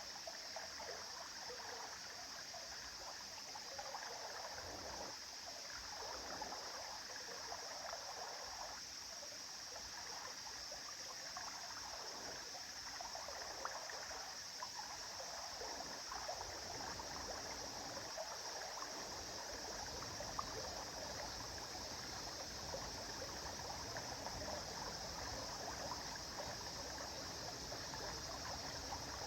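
A river flowing steadily, an even rushing of water with small splashes ticking through it here and there.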